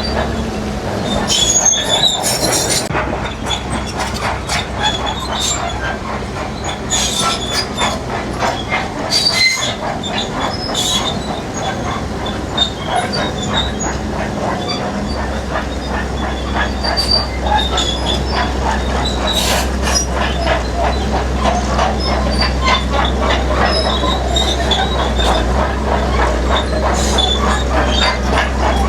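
Heavy crawler bulldozer at work: its diesel engine drones steadily while its steel tracks clank and squeal, with metal-on-rock scraping. The low engine drone grows heavier about halfway through, as the machine takes on load.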